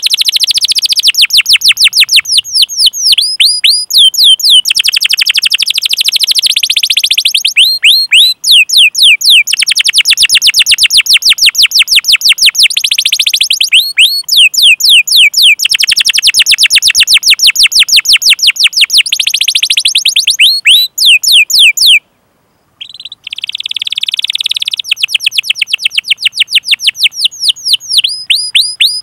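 Domestic canary singing: long runs of rapidly repeated, falling 'cuit' call notes alternating with dense rolling trills. The song breaks off for under a second about 22 seconds in, then resumes.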